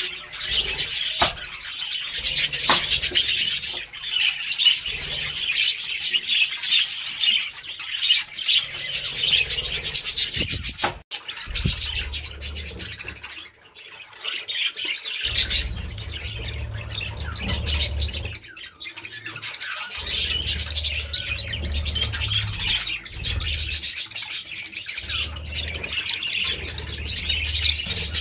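A flock of budgerigars chattering continuously, a dense mix of chirps, warbles and squawks. A low rumble comes and goes in the second half.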